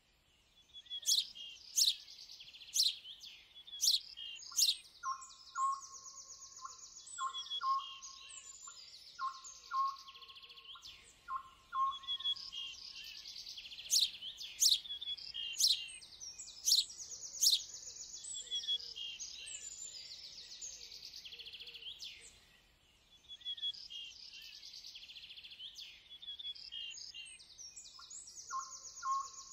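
Several birds chirping and calling together: quick high chirps and sharp down-slurred notes, with a lower whistled note repeated in short runs. There is a brief lull about three quarters of the way in.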